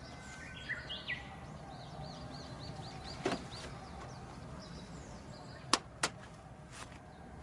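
Outdoor background noise with a bird chirping in a quick run of about five short rising-and-falling notes a second. Near the end, two sharp clicks about a third of a second apart stand out as the loudest sounds.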